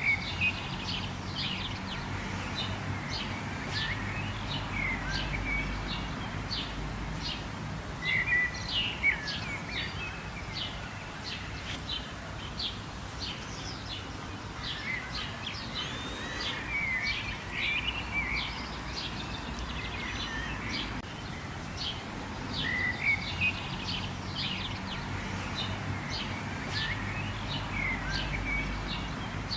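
Many birds chirping in quick, repeated short calls over a steady hiss of rain.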